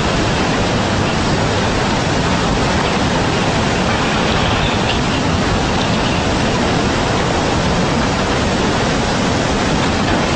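Tsunami floodwater rushing: a loud, steady, unbroken roar of moving water.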